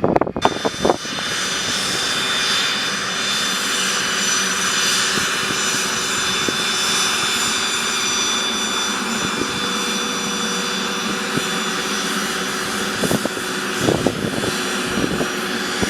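Cessna Citation CJ3's twin turbofans running steadily after landing, with a rushing hiss and a high whine of several steady tones. Sharp clicks and knocks come in the first second and again from about three seconds before the end.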